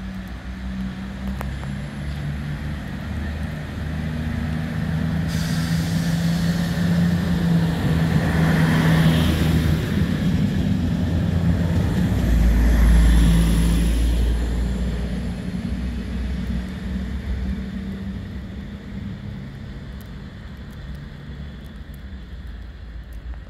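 A passenger train passing close along a station platform: its running noise and hum grow louder as it approaches, peak in a heavy low rumble as it goes by about halfway through, then fade as it pulls away.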